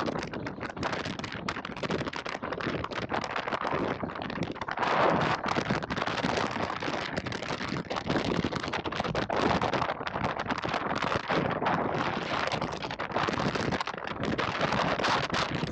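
Strong wind buffeting a camera microphone out on the water, a dense crackling rush that surges and drops in gusts.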